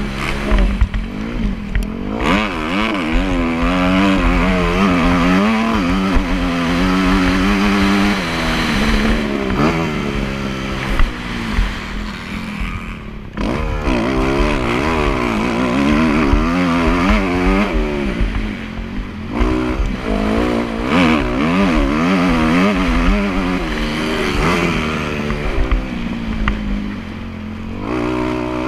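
Motocross motorcycle engine being ridden hard, its pitch climbing and dropping again and again every second or two as the throttle is opened and shut and the gears change.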